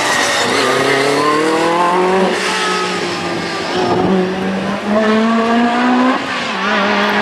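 Group B rally car accelerating hard. The engine note climbs in pitch, drops at each upshift and climbs again, about three gear changes in a row.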